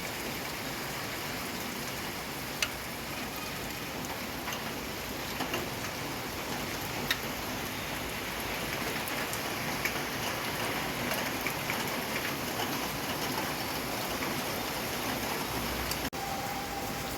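Steady rain falling, an even hiss with a few sharp ticks of single drops striking close by. Near the end a brief dropout cuts the sound for an instant.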